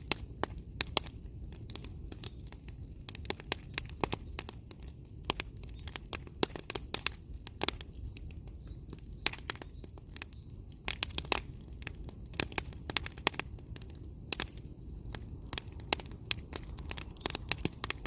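Wood fire burning, with irregular sharp crackles and pops of the burning wood over a low steady rush.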